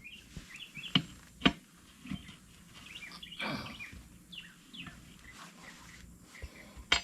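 Birds chirping, with two sharp knocks about a second and a second and a half in.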